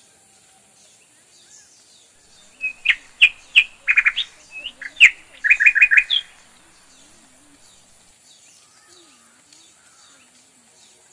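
Bird chirping: a quick run of loud, short, high chirps for about four seconds, starting a couple of seconds in, then only faint scattered bird calls.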